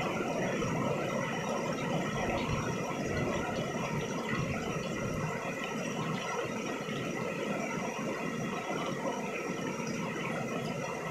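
Steady rain falling on a paved yard, an even hiss of many drops.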